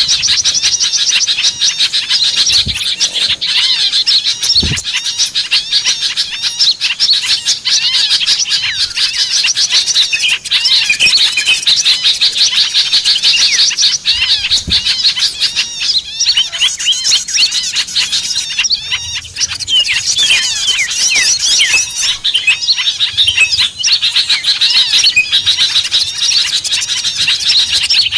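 Bird-lure recording of many small songbirds chattering at once: a dense, loud, unbroken tangle of quick high chirps and short trills overlapping with no pause.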